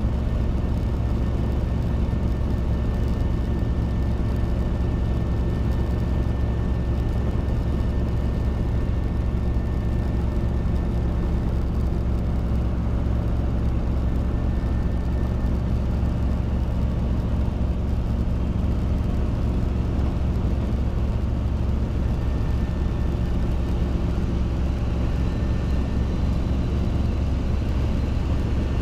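Robinson R22 helicopter in flight: its piston engine and rotors make a steady low drone that does not change.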